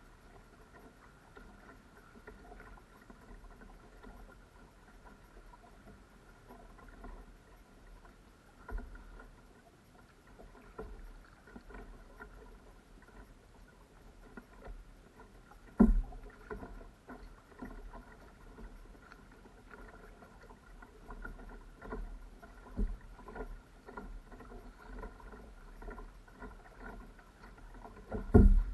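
Kayak on the sea: paddle strokes splashing and dripping, with water lapping at the hull. Loud hard knocks come about halfway through and again near the end, with a smaller one about a third of the way in.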